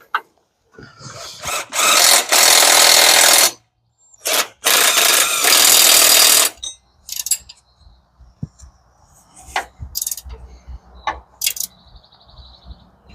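A power tool run in two bursts of about a second and a half and two seconds, followed by scattered clicks and knocks of tools and parts being handled.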